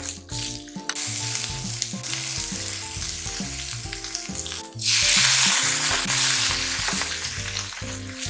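Shishito peppers and chikuwa sizzling in a hot frying pan as they are stirred with a wooden spatula. A little before five seconds in, the sizzle jumps much louder as the seasonings go into the pan, then slowly dies down. Background music plays throughout.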